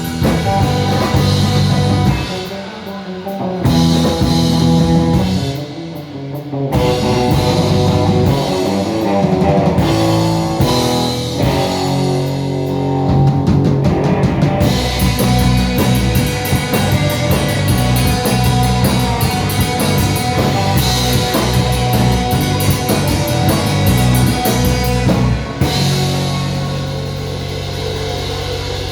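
Rock band playing live, guitars over a drum kit. The band cuts out briefly twice in the first few seconds, then plays on at full tilt; near the end the drums stop and a held chord rings on.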